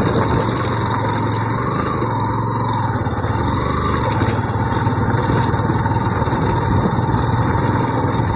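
Yamaha FZ V2 motorcycle's single-cylinder engine running at a steady pace, its pitch rising briefly twice, with road and wind noise.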